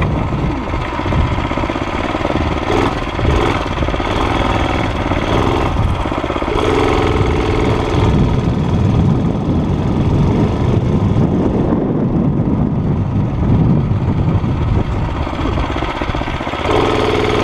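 Small single-cylinder Tecumseh engine of a Murray mini bike running during a test ride, its speed changing as it is ridden, settling into a steady note for a couple of seconds about six and a half seconds in and again near the end.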